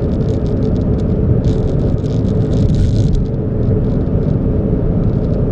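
Steady car rumble heard from inside the vehicle, with a faint steady hum and scattered light ticks over it.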